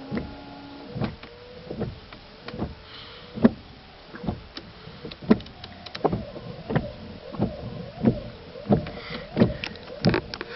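A run of sharp knocks or taps, about one every three quarters of a second, over a faint steady hum.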